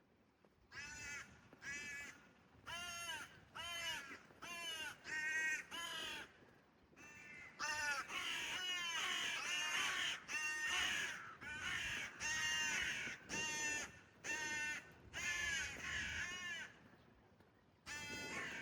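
Crows cawing: a run of short harsh caws about two a second, from more than one bird, overlapping thickly in the middle, then a brief pause and more cawing near the end.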